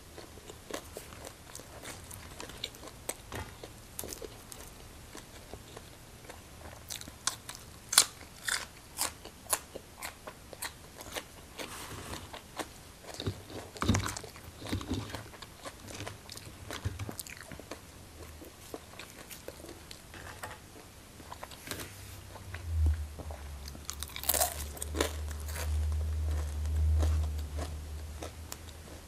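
A person chewing and biting food close to the microphone, with crunching bites and many short mouth clicks; a low hum comes in during the last several seconds.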